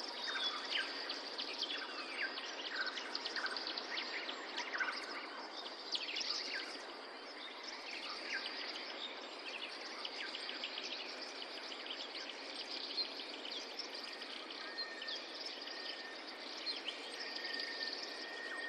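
A nature recording of many birds chirping and calling in quick short notes over a steady background hiss; a steady high insect-like tone joins about fifteen seconds in.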